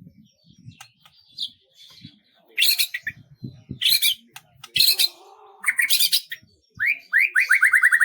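Songbirds chirping: a few loud harsh calls, then a fast trill of short downward-sliding notes, about eight a second, near the end.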